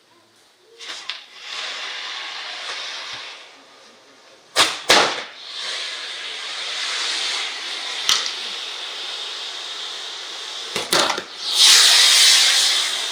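Handmade set-piece fireworks hissing as they spray sparks, in surges that rise and fade, with sharp cracks about four and a half, five, eight and eleven seconds in. The loudest hiss comes near the end.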